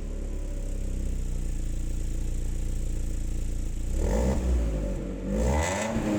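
BMW E36 318is four-cylinder engine idling steadily through its old exhaust, then blipped twice near the end, the revs rising and falling each time. The owner calls this exhaust really, really bad.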